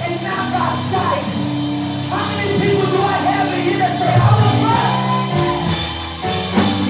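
Live gospel worship music: held keyboard chords with a voice singing over them.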